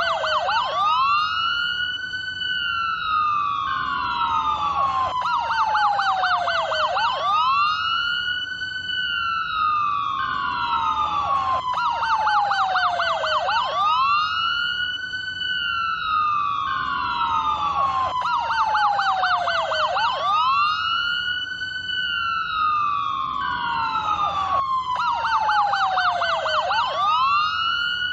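US police car electronic siren cycling through its tones: a wail that rises quickly and falls slowly, then a burst of rapid yelping sweeps. The pattern repeats about every six and a half seconds.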